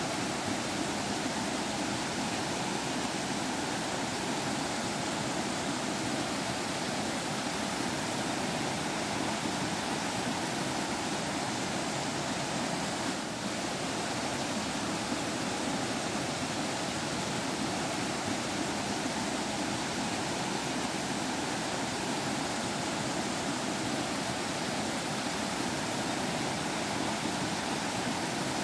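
Stream water flowing and burbling steadily over rocks in a forest, a continuous even rush.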